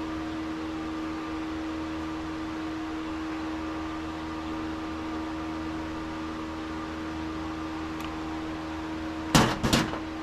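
Electric shop fan running with a steady hum and tone. Near the end come two or three quick sharp knocks close together.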